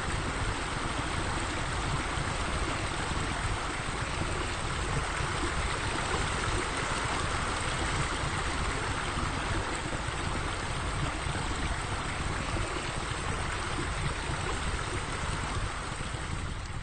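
Steady rush of running water, with a rough low rumble underneath.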